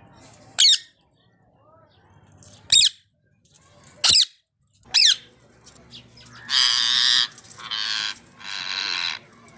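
Indian ringneck parrot calling: four short, sharp shrieks a second or so apart, then three longer harsh screeches in quick succession near the end.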